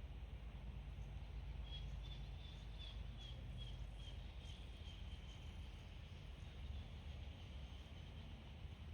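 A small bird calling: a run of quick, high, evenly repeated chirps starting about two seconds in, trailing off into a thin, fading note, over a low steady background rumble.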